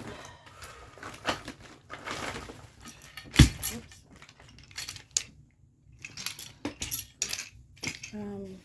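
Dishes and other small hard objects clinking and clattering as they are picked up and handled, with one sharp knock about three and a half seconds in.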